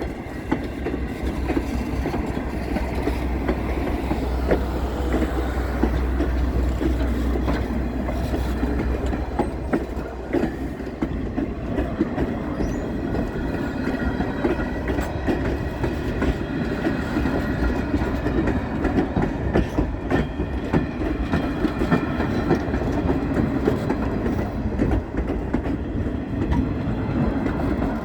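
Steam-hauled passenger train rolling along the track: a steady running noise with the clatter of wheels over rail joints, and a deep rumble that fades after about ten seconds.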